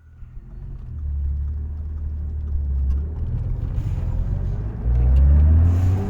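Vehicle engine running with a low rumble, its pitch rising from about four and a half seconds in as it revs up.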